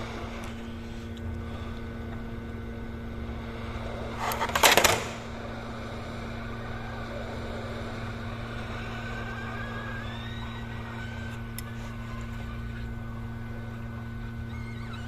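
Steady low electrical hum of workbench equipment while a fuse is soldered onto a TV mainboard, with a brief loud hiss a little over four seconds in.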